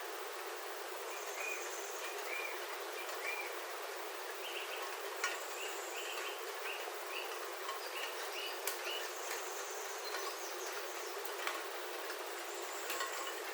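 Steady rain on a roof heard from inside, an even hiss with a few sharp ticks of drops landing close by. Over it a bird repeats short chirps in two runs, the second beginning a little past a third of the way in.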